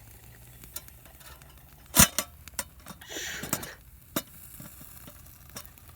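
Sharp clinks and knocks of metal cookware and utensils being handled while checking freshly smoked ribs, the loudest knock about two seconds in, with a brief rustling hiss just after three seconds.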